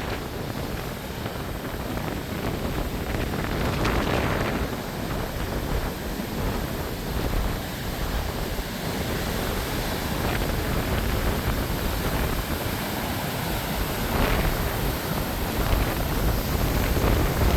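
Strong wind buffeting the microphone over the steady wash of ocean surf, with gusts swelling about four seconds in and again near the end.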